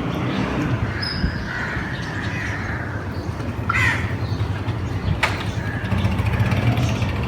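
Crow cawing, with one sharp caw about four seconds in, over a steady low rumble of traffic. A brief click about five seconds in.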